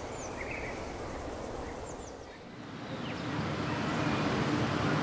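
Outdoor ambience: a few short bird chirps over a steady noise, which gives way about halfway through to a louder, lower rumbling noise.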